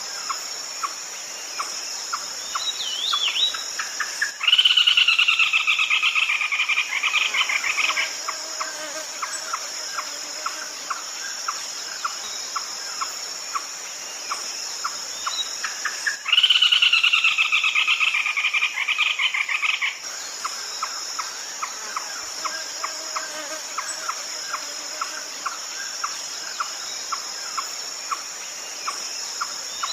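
Red-legged crake calling: a loud, rapid call of about four seconds that falls slightly in pitch, heard twice about twelve seconds apart, with a steady run of short ticking notes, about two a second, in between. A steady high insect drone runs underneath.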